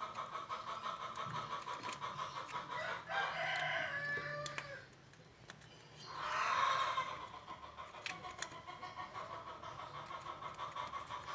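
A rooster crowing, once about three seconds in and again, louder, about six seconds in.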